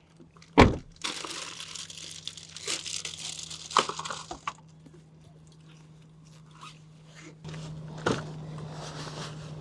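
Plastic packaging crinkling and rustling as the newly bought paddle-board pump is handled and unpacked, with a sharp knock about half a second in and a faint steady low hum underneath.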